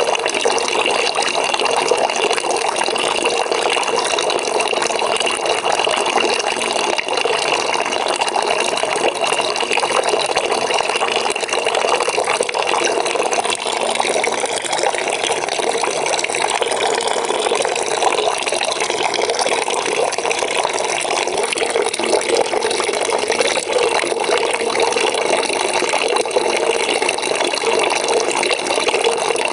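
Water pouring steadily into a bucket as it fills, a continuous even splashing rush.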